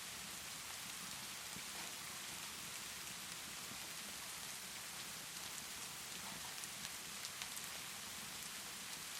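Steady rainfall hiss with scattered small sharp crackles from a wood fire in a fireplace, more of them in the second half.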